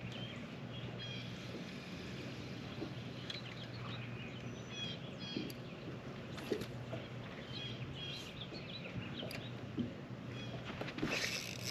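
Songbirds chirping in short, repeated calls over a steady low hum.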